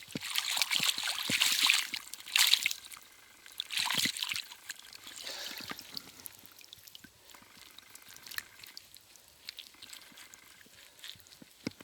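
Rustling and crackling of plant stems and loose soil as a freshly pulled-up kalgan (tormentil) root is handled. The sound comes in several rough bursts over the first five seconds, then thins to faint scattered crackles.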